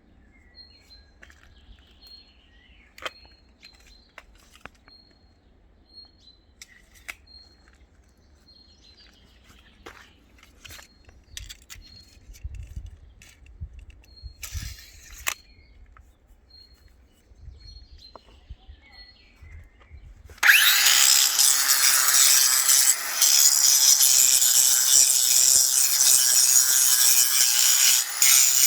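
Short, high bird chirps repeating about once a second, with scattered small knocks, then a power tool starts suddenly about two-thirds of the way in and runs loud and steady with a harsh, high grating sound.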